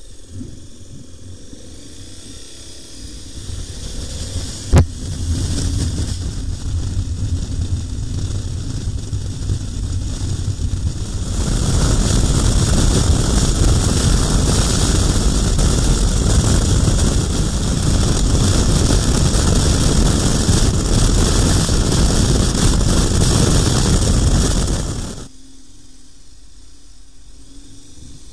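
KTM 1090 Adventure R motorcycle on the move, with heavy wind rush over the microphone and the engine underneath. There is a sharp click about five seconds in. The sound gets louder about eleven seconds in, then drops suddenly to a quieter steady rush near the end.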